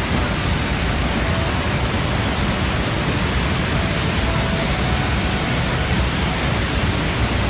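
Steady roar of Niagara Falls' falling water, a loud even rushing noise with no breaks.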